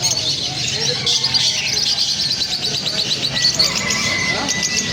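A flock of small birds chirping and chattering together in fast, overlapping high notes, with a thin steady whistle joining in about three seconds in.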